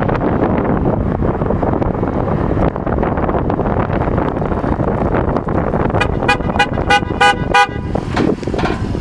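Car on the move with heavy wind and road noise, then a vehicle horn tooting about six times in quick succession around six seconds in.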